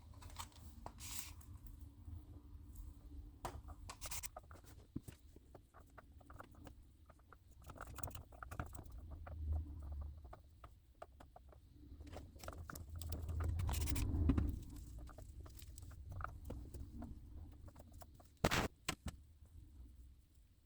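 Small handling noises of doll hair being wound onto hair rollers: soft scratching and rustling with scattered light clicks, swelling briefly in the middle, and two sharp clicks near the end.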